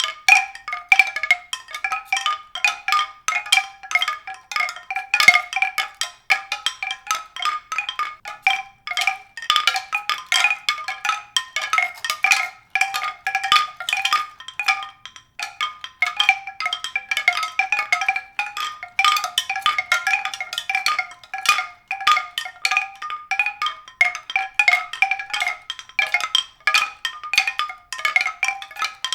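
Tuned percussion: a continuous stream of quick struck notes that ring briefly, several a second, all in a high register with no low notes.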